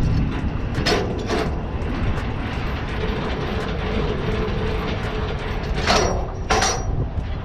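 Semi-truck running with a steady low rumble. Sharp metallic clanks and rattles come about a second in and again near the end.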